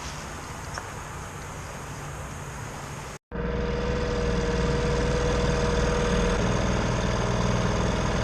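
Boat engine running steadily under way. About three seconds in, the sound cuts and comes back louder and closer, with a steady whine over the engine for a few seconds.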